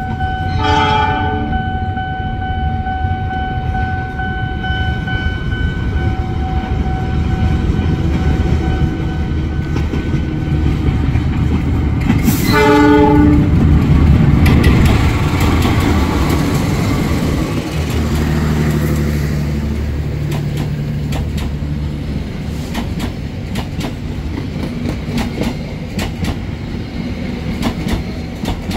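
Diesel-electric locomotive hauling a passenger train: its horn sounds two short blasts, one near the start and one about twelve seconds in, over the running engine, which is loudest as it passes at about fourteen seconds. As the coaches roll by, the wheels click steadily over the rail joints.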